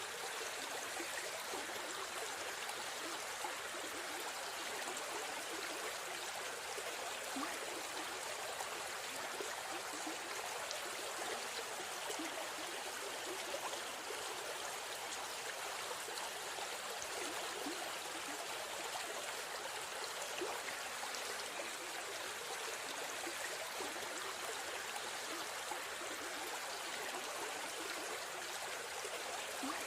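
A river stream flowing: a steady, even rush of water.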